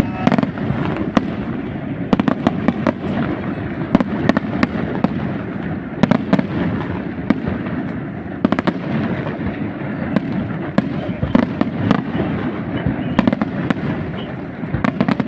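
Aerial fireworks display: a dense, continuous run of bangs and sharp crackling reports over a steady rumble of booms.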